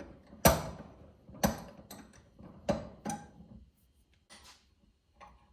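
Sharp metal clicks and knocks from hand tools working the door striker and its washer held in vise grips: four sharp clicks about a second apart, then a fainter one near the end.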